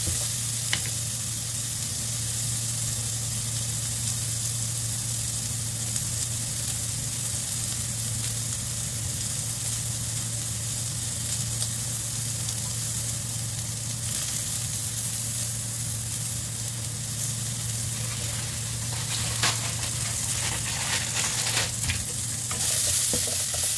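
Sliced onion and garlic sizzling gently in a wok, with a wooden spatula stirring them briefly at first. A steady low hum runs underneath, and a few light clicks come near the end.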